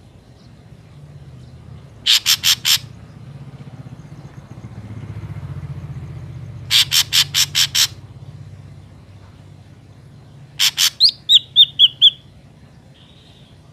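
Ashy drongo calling: three bouts of rapid, harsh, scratchy notes (about four, then six, then two), followed near the end by a run of five short, falling whistles. A low rumble swells and fades beneath the calls in the middle.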